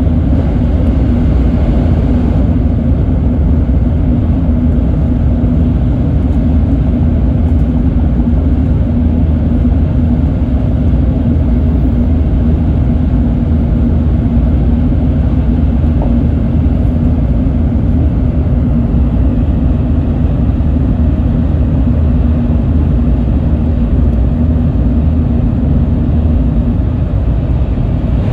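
Shinkansen bullet train running, heard from inside the passenger cabin as a loud, steady rumble and roar with a faint constant hum.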